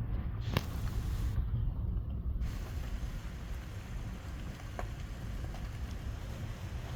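Steady low rumble, with a sharp click about half a second in and a fainter click near five seconds.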